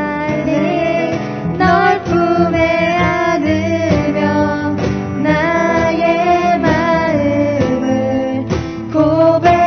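A live song: a voice singing a melody over guitar accompaniment.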